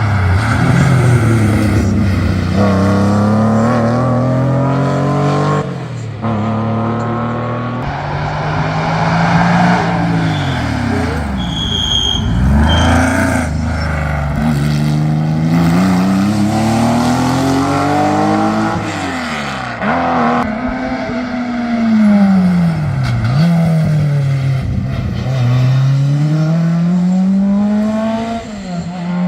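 Historic race car engine revving hard through the gears on a hill climb, its pitch climbing and dropping again and again with each shift, lift and braking. A brief high squeal sounds about halfway through.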